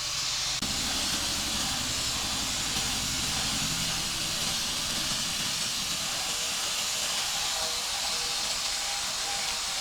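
A steady, loud hiss, like air or spray under pressure, with a low fluttering machine hum under it that starts suddenly just after the start and fades out after about four seconds.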